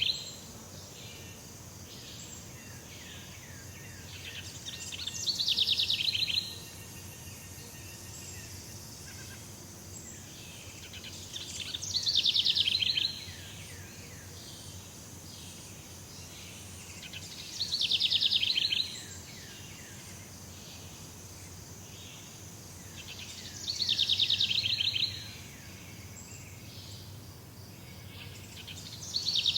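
Jungle ambience: a steady high insect-like hiss, over which a loud, high-pitched pulsed trill, about a second and a half long, comes back every six seconds or so.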